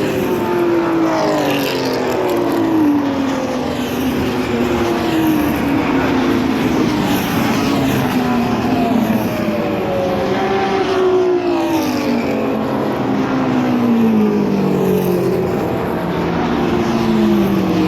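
Race cars' engines running hard on track, several cars going by one after another, each engine note sliding down in pitch as it passes, with no break in the noise.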